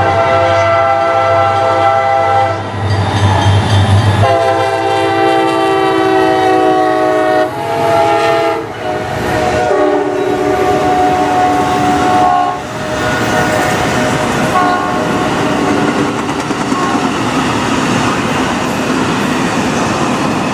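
A diesel freight locomotive's air horn sounding a series of long blasts with a short one among them, then the train rumbling past, with its wheels clattering over the rails.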